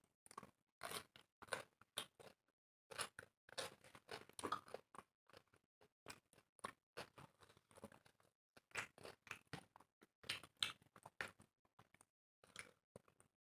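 Two people chewing and crunching food close to the microphone, eating dry flatbread, chicken curry and raw cucumber slices by hand. The sound is an irregular run of short bites and chews.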